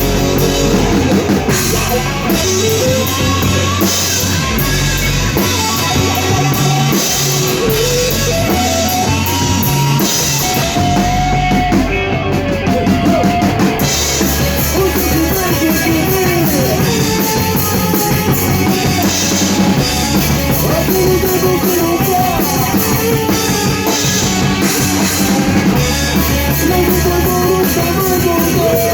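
Rock band playing live in rehearsal: drum kit, electric guitar and bass together, with a melody line gliding above, briefly thinning out about 12 seconds in.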